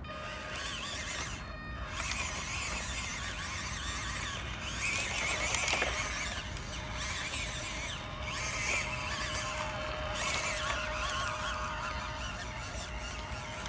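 Off-road RC car's electric motor and gears whining as it drives over rough ground, with a high pitch that rises and falls.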